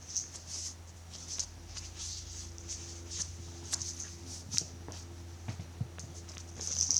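Light, repeated rattling and scratching as cats bat and chase a toy mouse, with a few small taps and a steady low hum beneath.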